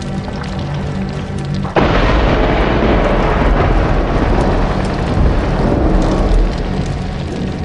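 Music with held notes, cut into about two seconds in by a sudden loud rumbling boom with a crackling hiss on top, like a thunderclap or blast, which fades away over about five seconds.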